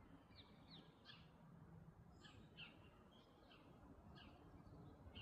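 Faint bird chirps: a scattered string of short, falling calls, about ten in all, over a quiet background hiss.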